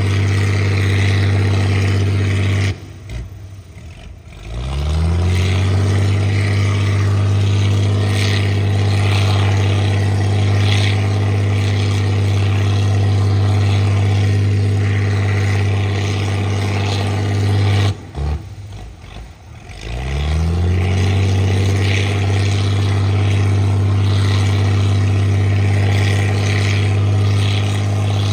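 Engine of a mud-dredging boat running steadily. Twice it drops away abruptly for a second or two, then speeds back up to its steady pitch.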